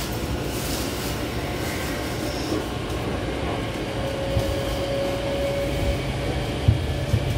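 Running sound inside a Meitetsu 5000 series electric train: a steady rumble of wheels on rail, with a faint steady tone for a couple of seconds in the middle and sharp rail-joint knocks near the end.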